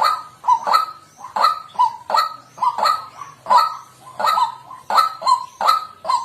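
White-breasted waterhen calling: a rapid, unbroken string of harsh 'kwak' notes, about two to three a second.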